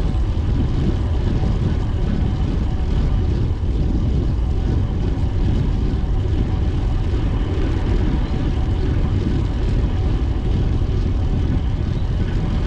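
Steady wind rumble on the microphone of a camera carried on a moving bicycle, with road noise underneath and no change throughout.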